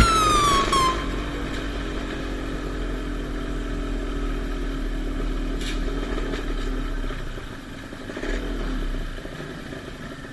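Motocross dirt bike engines running, with a swell about eight seconds in. A falling tone fades out in the first second.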